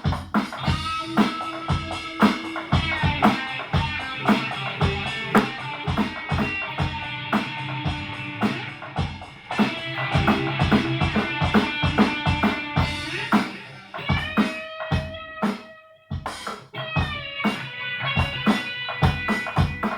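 Amateur electric guitar and drum kit playing loud, fast rock, with dense, even drum hits under held guitar notes; it thins out briefly about three-quarters of the way through, then carries on.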